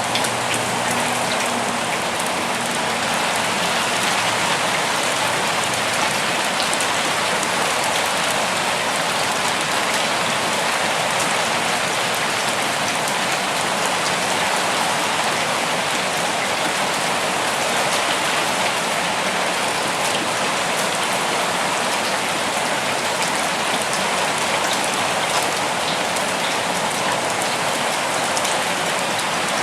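Steady rain falling, a dense, even hiss of drops that holds at one level without a break.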